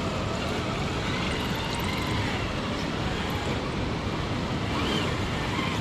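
Traxxas TRX-6 RC crawler's electric motor and gear drivetrain whining faintly as it crawls over rocks, the pitch rising and falling with the throttle, over a steady rushing noise.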